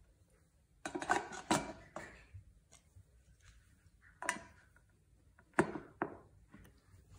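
Hard objects knocking and clattering as they are handled: a cluster of knocks about a second in, then single knocks a little past four seconds and twice more around five and a half to six seconds.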